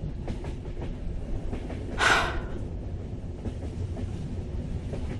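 Ambience inside a moving train carriage: a steady low rumble with faint wheel clicks, and a short breathy hiss about two seconds in.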